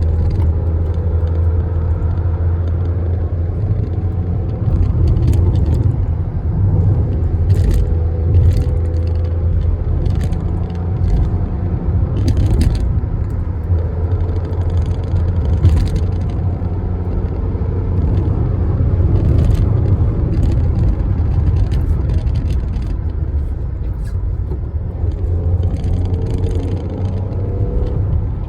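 Toyota Aygo on the move: a steady low engine and road drone, with scattered short clicks and knocks from the car.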